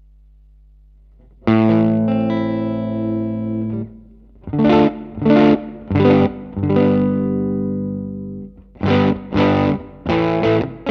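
Fender Stratocaster electric guitar played through a Line 6 Helix amp-and-cab model. A faint steady hum, then a chord rung out about a second and a half in, three short stabbed chords, another held chord, and a run of quicker chord stabs near the end.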